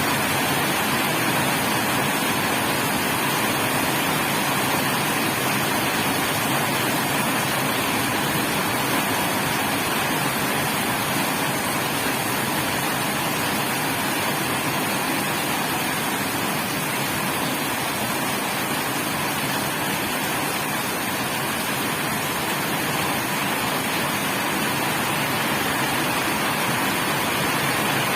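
Heavy rain falling steadily, an even, dense hiss that holds the same level throughout.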